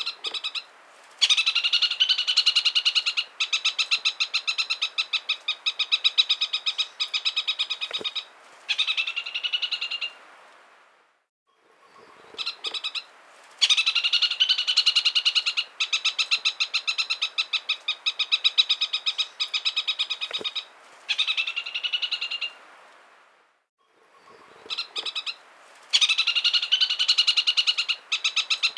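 Chatham Islands parakeet chattering: a few short notes, then a long run of very rapid repeated notes lasting several seconds. The same bout comes round about every twelve seconds, three times over.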